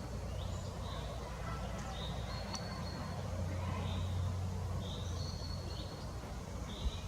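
Faint high bird calls, short chirps and brief thin whistles, repeating about every two and a half seconds over a steady low rumble.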